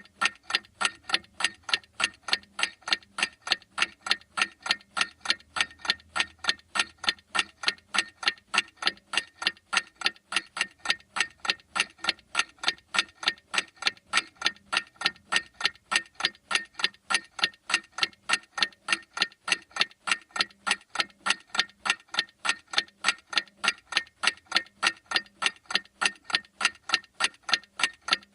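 A clock ticking steadily, sharp even ticks repeating at a constant rate without a break.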